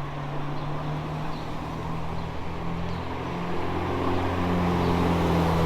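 A car engine running at a steady pitch, growing gradually louder over the last two seconds or so.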